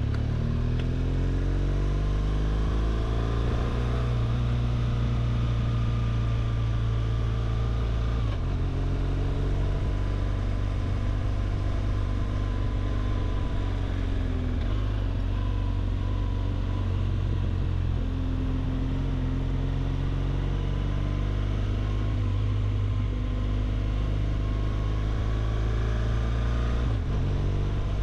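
BMW R1200GS's flat-twin boxer engine pulling on the move, its note climbing as it accelerates and dropping back at gear changes about three times.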